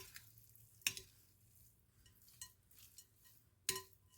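A spoon stirring a thick rice casserole mixture in a dish, clinking against the sides: sharp knocks at the start, about a second in and near the end, with soft scraping between.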